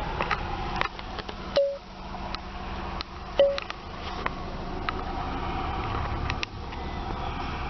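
A string of sharp clicks and two short beeps about two seconds apart, over a steady low hum of the running car.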